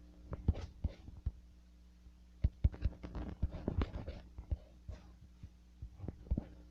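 Irregular soft knocks and clicks, a few a second and uneven, over a steady low hum.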